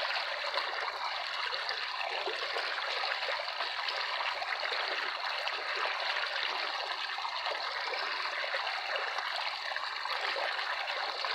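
Running water in a stream: a steady trickling rush with no pauses or changes.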